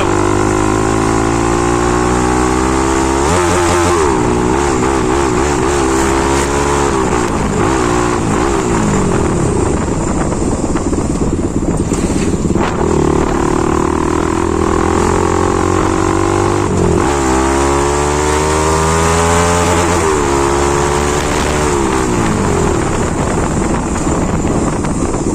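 Bajaj Pulsar NS200's single-cylinder engine through a modified aftermarket exhaust, accelerating while ridden: the pitch climbs, drops sharply at each gear change, then falls away as the bike slows. The same run of pulling through the gears and easing off comes twice.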